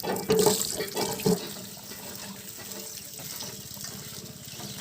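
Water splashing and sloshing as cut pieces of fish are washed by hand, loudest with a few splashes in the first second and a half, then a steadier, quieter trickle and swish.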